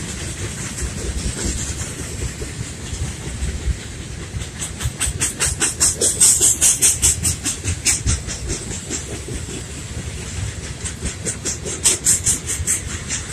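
A freight train of loaded coal hopper cars rolling past with a steady low rumble, its wheels clicking over the track in quick runs of about four or five clicks a second. The clicking grows loudest a third of the way in and comes back near the end.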